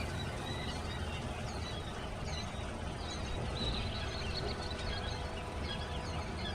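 A brood of chicks and baby quail peeping: many short, high chirps overlapping throughout, over a steady low background rumble.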